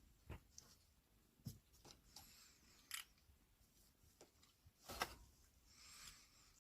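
Faint, sparse light clicks and taps, about five of them with the sharpest about five seconds in, and a soft rustle near the end: kittens moving and playing about the room.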